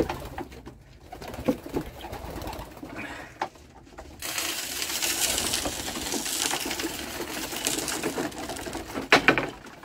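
Racing pigeons cooing while they are being fed. About four seconds in, a steady rustling hiss starts and lasts several seconds, and a sharp knock comes near the end.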